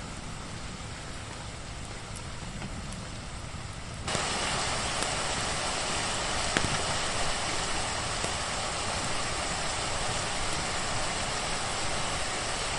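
Steady rain noise over a low rumble. About four seconds in, the rain abruptly turns louder and brighter, and a little later there is a single sharp crackle.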